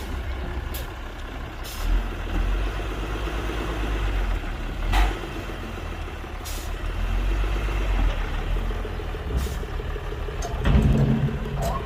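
Heavy diesel earthmoving machinery working, a steady deep engine rumble, with brief sharp sounds several times and a louder surge near the end.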